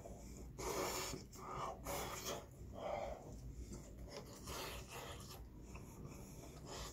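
Close-up chewing and mouth sounds of a person eating chicken breast, in soft irregular bursts every half second to a second, with breathing through the nose between them.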